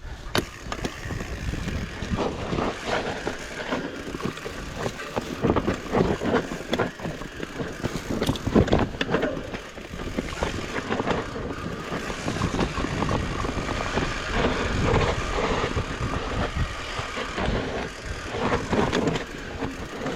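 Fat bike riding a rough, rocky trail: a continuous rumble of tyres and wind on the microphone, with frequent knocks and rattles from the bike over rocks.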